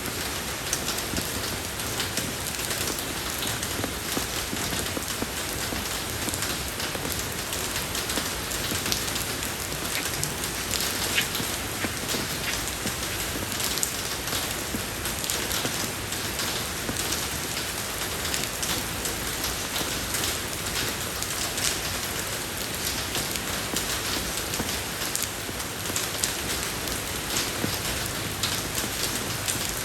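Steady rain falling on a road surface: an even hiss dotted with many small drop ticks.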